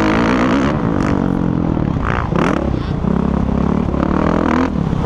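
Motocross bike engines running hard, rising and falling in pitch as the riders work the throttle, with a couple of quick revs about two seconds in.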